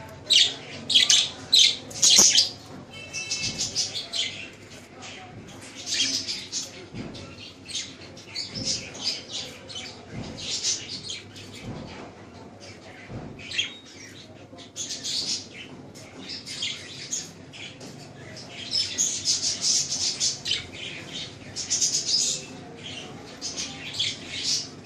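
A group of pet parrots chattering and squawking: a steady run of short, high-pitched calls, with a few loud squawks about a second or two in and a dense burst of chatter near the end.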